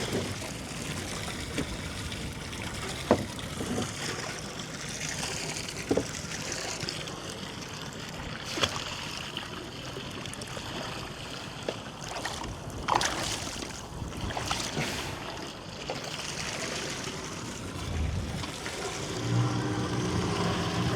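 Small fishing boat at sea: a steady wash of water and wind noise, broken by a few sharp knocks. A low, steady motor hum comes in near the end.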